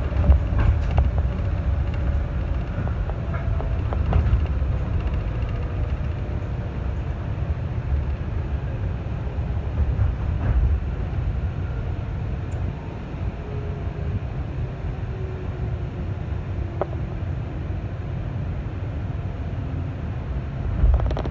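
Running noise of a 211 series electric train heard inside the passenger car: a steady low rumble of wheels on rails, with a few sharp clicks scattered through it.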